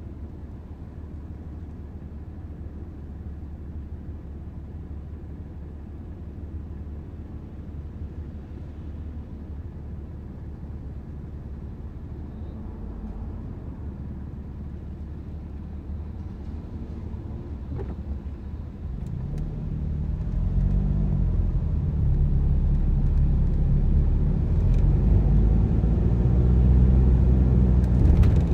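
Car on the road: steady low rumble of engine and tyres, growing louder about two-thirds of the way through as the engine note rises and falls with acceleration.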